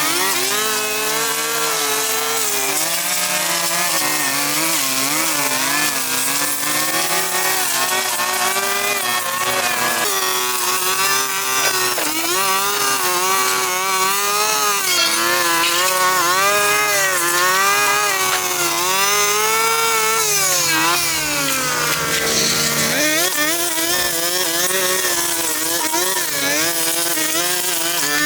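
Small two-stroke power tool for cutting vegetation, such as a string trimmer or chainsaw, running continuously, its engine pitch rising and falling as it bogs under the cut and revs back up, dipping lowest about two-thirds of the way through.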